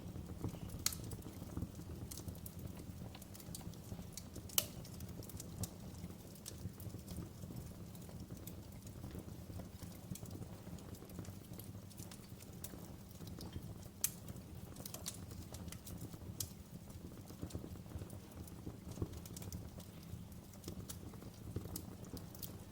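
Wood fire crackling in a fireplace: a steady low rumble of flames with irregular sharp pops and snaps, the loudest about four and a half seconds in.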